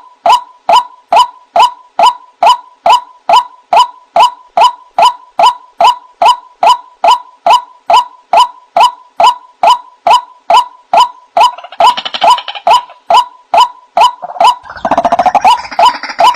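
White-breasted waterhen repeating a short, hooked 'wak' call about twice a second in a steady rhythm. From about three-quarters of the way in, more overlapping calls join and build into a dense chatter near the end.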